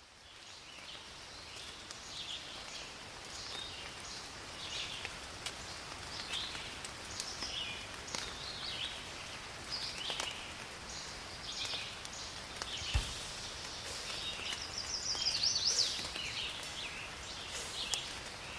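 Small birds chirping and singing outdoors, short calls and trills following one another, over a steady faint hiss, with one brief low knock about two-thirds of the way through.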